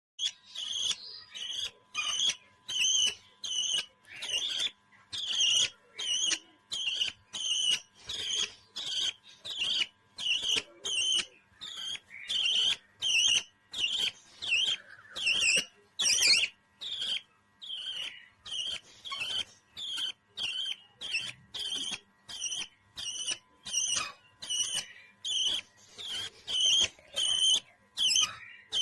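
Parrot chirping over and over in short, bright calls, about two a second, with brief gaps between them.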